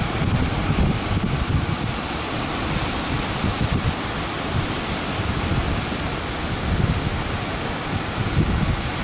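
Strong wind buffeting the microphone over a steady roar of breaking surf.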